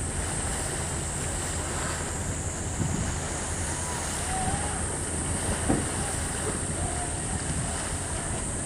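Steady wind noise on the microphone with a low rumble, outdoors by the sea, with a few faint distant calls.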